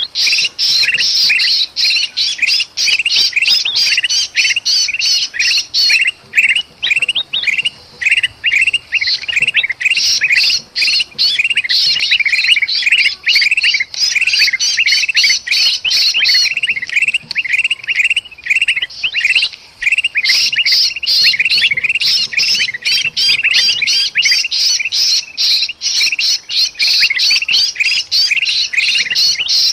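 Bulbuls calling noisily: a dense, agitated chatter of rapid, repeated squawking notes. The mix is of black-crested bulbul ('kutilang emas') calls and the distress calls of a caught bulbul ('kutilang kejepit').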